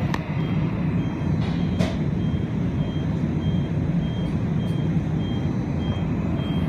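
Subway car running, heard from inside the car: a steady low rumble, with a faint short high beep repeating about every half second.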